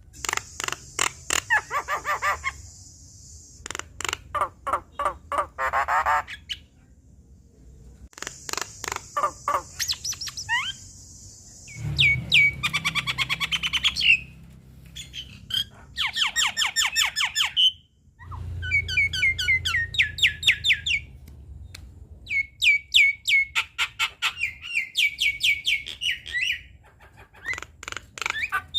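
Javan myna calling: runs of rapid repeated harsh notes and chatters, each run a few seconds long, with short pauses between them.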